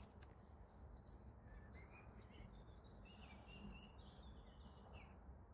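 Faint songbird song, a run of short warbling, chirping phrases, over a low steady background rumble.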